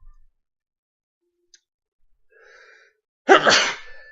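A person's short, loud breath or sigh close to the microphone, about three seconds in, after a near-silent pause.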